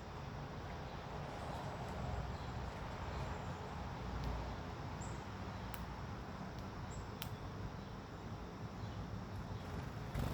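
Steady outdoor background noise with a few brief, high chirps from small birds and a few sharp clicks, one near the end.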